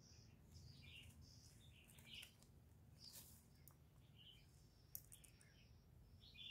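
Faint chirps and short calls of small birds, a scattering of brief high notes over a low steady background hum.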